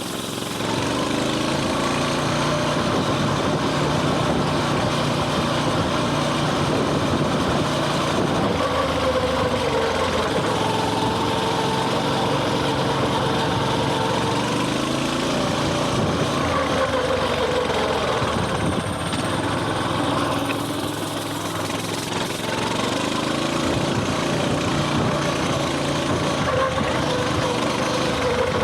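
Coleman mini bike's small single-cylinder four-stroke engine running while riding, its pitch rising and falling as the throttle is opened and eased. It briefly eases off about three-quarters of the way through.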